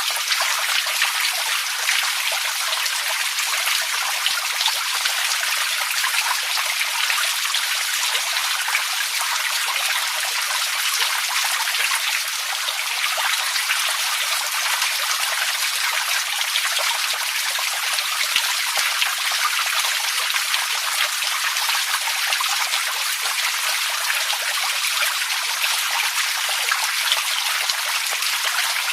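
Running water trickling and splashing, steady and unchanging, with a dense spatter of small drips and splashes.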